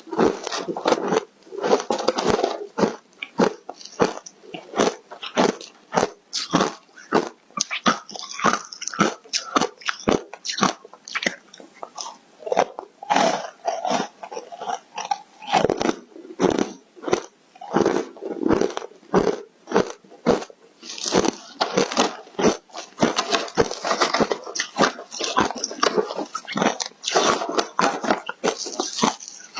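Foam ice coated in matcha powder being bitten and chewed close to the microphone: a steady run of sharp, crisp crunches, several a second.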